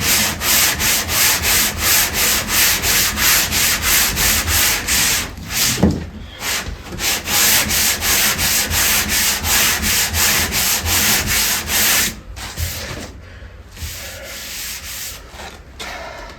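Hand sanding the faired hull of a wooden boat with a flexible sanding board: quick, even back-and-forth strokes, about three or four a second, with a brief break near the middle. About twelve seconds in the rhythm stops and a few softer, slower strokes follow.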